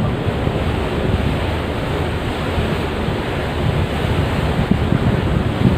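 Steady rush of wind buffeting the microphone over the wash of the sea, heard from aboard a passenger ship.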